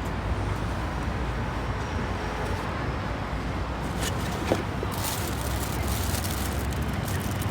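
Outdoor street background: a steady low rumble of traffic, with a few brief hissy bursts about four and five seconds in.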